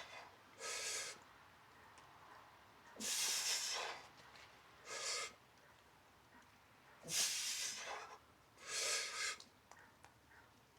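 A man breathing hard from exercise: deep breaths in pairs, a longer one and then a shorter one, about every four seconds, three times.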